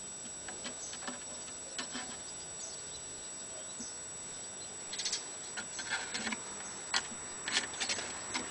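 Kittens moving about: light patter and scuffling of paws and claws with scattered small clicks, busier from about halfway through.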